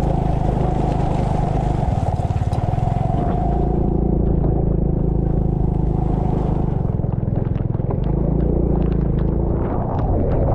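Small vehicle engine running steadily under load, with light rattles and knocks from about halfway on.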